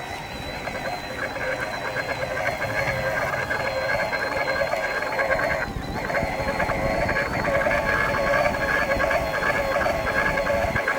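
Mid-drive motor of a Giant Trance X Advanced E+ e-mountain bike running under pedal assist on the flat: a steady high whine over a rapid, rough grinding, which the owner takes for a grinding bearing. The sound dips briefly about six seconds in.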